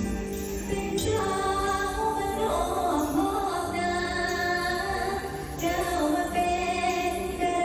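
Mor lam music: a woman singing long, wavering held notes over the band's accompaniment.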